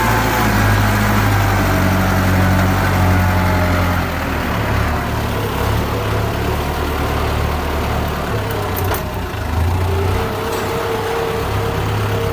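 Kubota tractor's diesel engine running steadily while pulling a plough.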